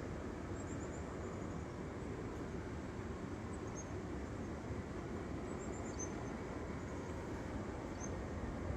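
Steady low rushing noise, with a few brief runs of faint, high, falling chirps from a small bird.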